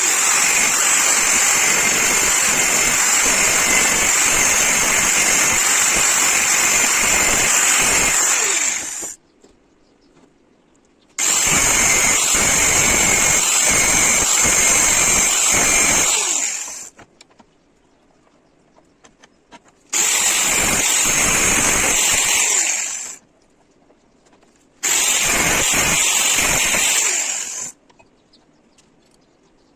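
Loud metalworking noise in four bursts with quiet gaps between them: a long first run of about nine seconds, then three shorter runs of about three to five seconds, each a dense high-pitched hiss that starts abruptly.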